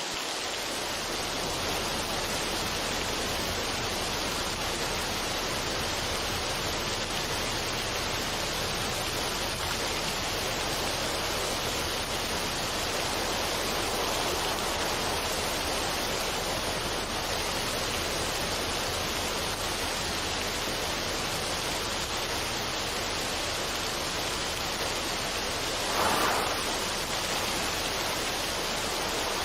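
Steady, even rushing noise with no tune or rhythm, with a short louder swell about 26 seconds in.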